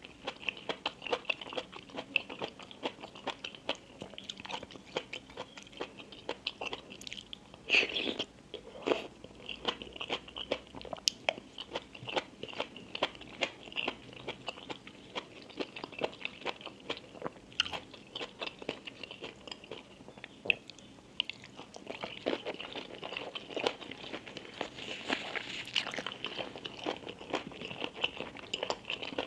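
Close-miked eating sounds: a person biting and chewing crunchy food, with many sharp crunches in quick succession and a louder crunch about eight seconds in.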